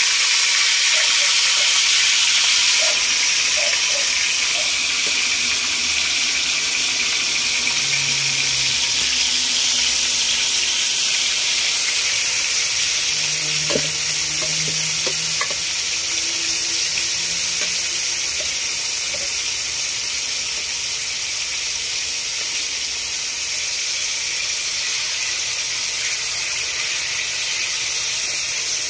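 Marinated beef slices frying in a wok: a steady sizzle, a little louder in the first few seconds.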